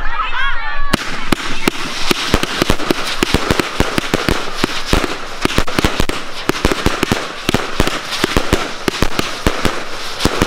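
Fireworks display going off: about a second in, a dense, unbroken run of sharp bangs and crackles starts, many per second, and keeps on.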